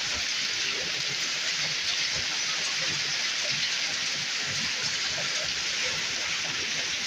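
Heavy downpour from a storm, an even, steady hiss of precipitation falling on surfaces.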